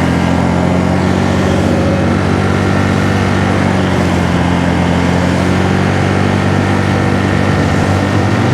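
Honda Navi's small single-cylinder engine running at a steady speed while riding, over a rush of wind and road noise.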